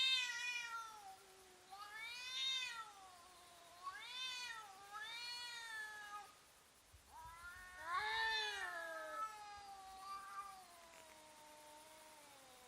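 Domestic cats yowling at each other in an aggressive standoff: a run of long, drawn-out howls whose pitch wavers up and down, one after another, ending in a long howl that slowly falls in pitch. This is the threatening caterwaul cats use to intimidate a rival before a fight.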